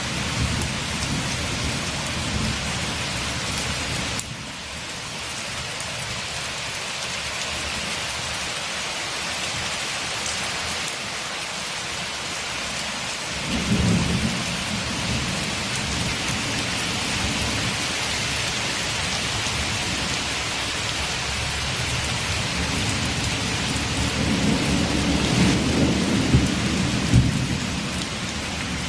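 Steady rain with low rolls of thunder: one at the start, a short one about fourteen seconds in, and a longer, louder one near the end.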